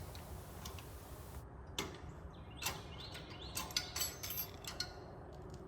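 Scattered light clicks and taps of small metal parts being handled, most of them bunched in the middle seconds, over a faint steady background.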